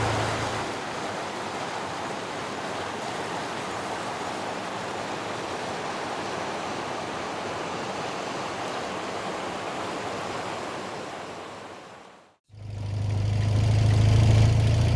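A steady rushing hiss that fades away about twelve seconds in; then a motorcycle engine idling comes in, the loudest sound, to the end.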